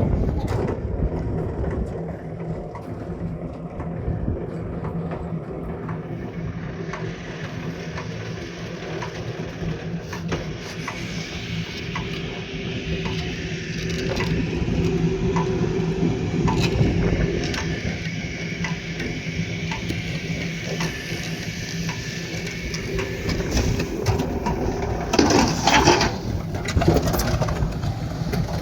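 A motor running steadily, with many short knocks and scrapes over it and a louder burst of noise about 25 seconds in.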